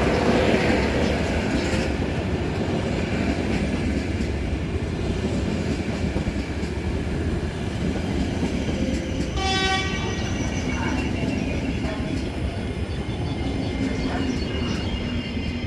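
Electric train running through the station with a steady low rumble, and a short horn toot about nine and a half seconds in.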